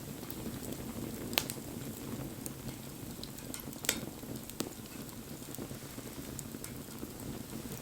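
Wood fire burning with a steady low rush of flame, scattered small crackles and three sharper pops about one and a half, four and four and a half seconds in.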